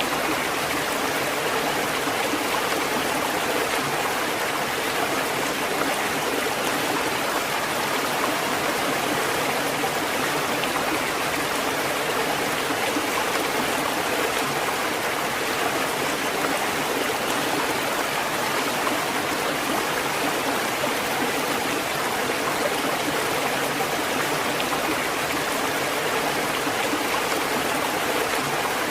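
Steady rushing water: a dense, even hiss and splash with no rise and fall of breaking waves.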